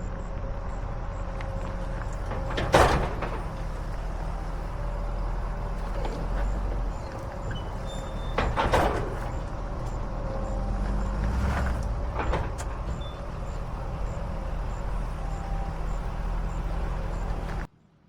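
Truck running down the road, heard from inside the cab as a steady low rumble, with a few sharp knocks and rattles; the loudest comes about three seconds in. The sound cuts off abruptly near the end.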